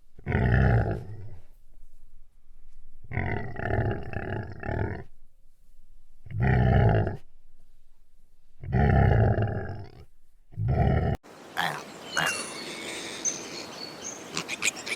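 A large animal roaring, five deep calls of about a second each with pauses between them. Near the end a cut brings in outdoor ambience with bird chirps.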